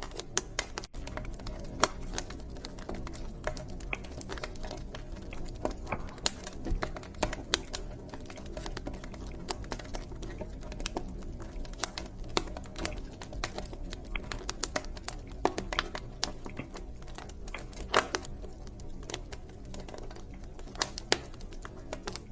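Wood fire crackling in a fireplace: irregular sharp snaps and pops, a few much louder than the rest, over a low steady rumble of the burning fire.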